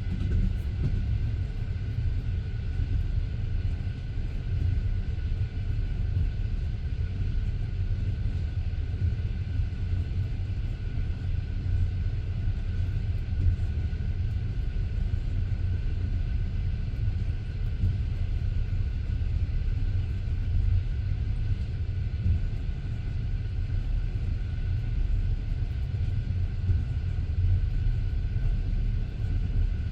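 Passenger train coach running along the line, heard from inside the carriage: a steady, even rumble of the wheels on the rails with a faint high hum over it.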